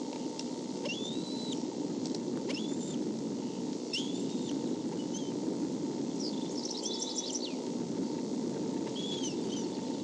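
Short high-pitched bird chirps, about half a dozen calls with a quick run of them near the middle, over a steady low background noise and a faint steady hum.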